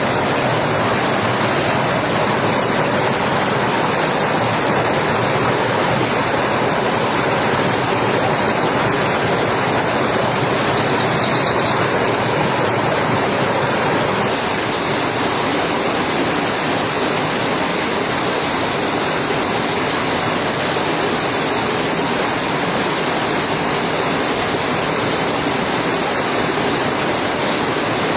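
Heavy rain falling as a steady, even hiss with no break.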